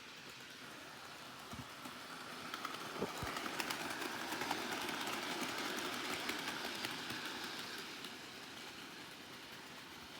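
Henry the Green Engine model train running along the track at steady speed, its wheels clicking over the rail joints; the sound builds as it passes close, loudest around the middle, then fades away. The motor itself is nearly silent.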